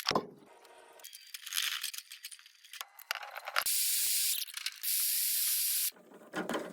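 Two steady hissing sprays about a second each, separated by a brief gap, with scattered metallic clicks and rattles before and after.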